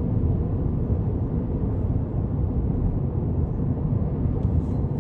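Steady low rumble of road and wind noise inside a Tesla Cybertruck's cabin while it is being driven.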